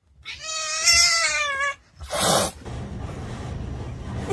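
Domestic cat giving one long yowl with a wavering pitch, followed about two seconds in by a short hiss.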